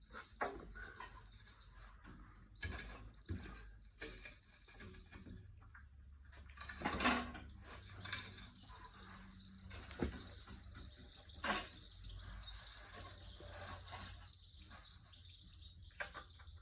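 Scattered clicks, knocks and one longer scrape of parts being handled on a small engine, as the oil fill cap and dipstick are checked, over a steady high chirping in the background.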